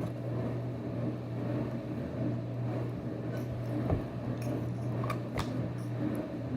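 Handling of Play-Doh tubs and dough: a few soft clicks and taps over a steady low hum.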